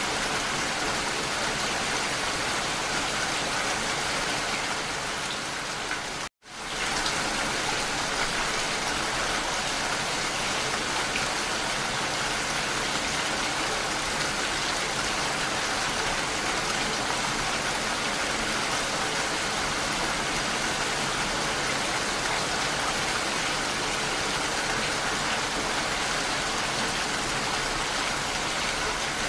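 Steady rain falling, an even hiss of drops with no distinct impacts. About six seconds in it dips and cuts to silence for a moment, then resumes at the same level.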